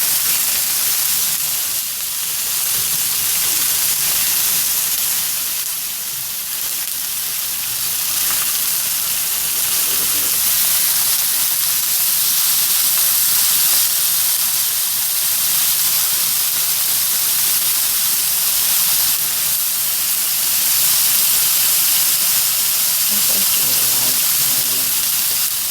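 Food frying in olive oil in a pan, a steady sizzle.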